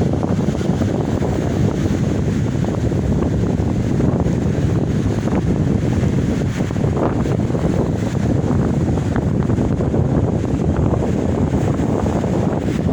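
Steady wind buffeting the microphone at the seaside, with sea surf beneath it.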